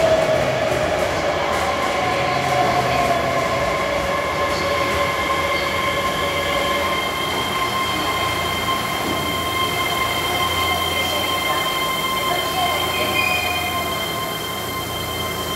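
Keihan electric train running along an underground station platform: a continuous rumble of the cars with steady high-pitched squealing tones, and a lower tone sliding downward in the first few seconds. The sound eases slightly near the end as the last car goes by.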